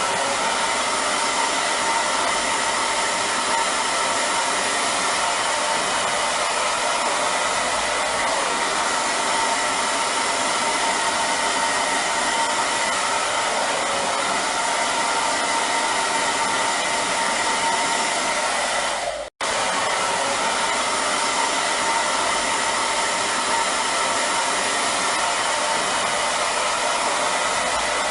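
Hair dryer running steadily: an even blowing rush with a faint whine in it. The sound drops out for a split second about two-thirds of the way through, then carries on unchanged.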